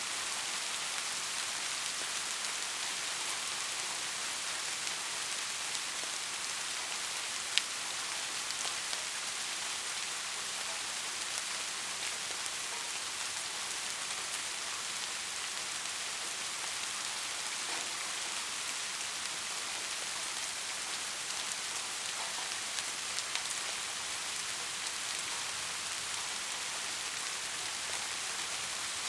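Heavy rain falling steadily, an even hiss with scattered drop ticks. One sharper, louder drop hit about seven and a half seconds in.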